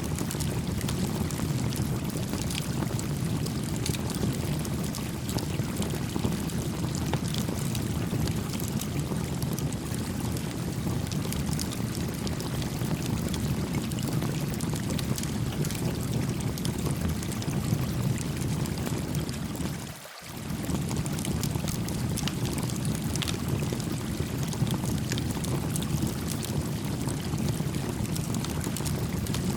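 A babbling stream rushing steadily, with a small wood campfire crackling in scattered sharp pops over it. The water's rush dips briefly about twenty seconds in.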